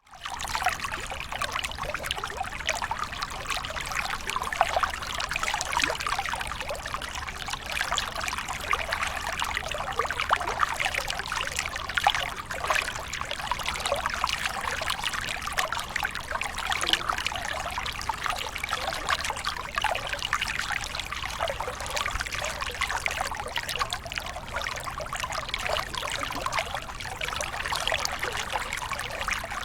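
Small waterfall splashing and pouring steadily, an even rush of water with many small splashes and no let-up.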